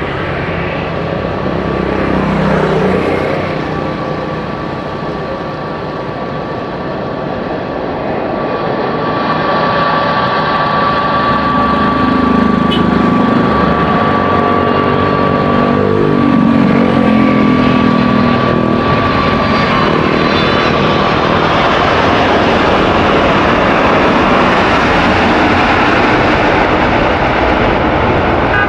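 Boeing 777-300ER's GE90-115B turbofan jet engines on a landing pass: a loud, steady jet rush that builds from about a third of the way in and stays loud, with a high fan whine held through the middle and lower engine tones sliding in pitch as the aircraft goes by.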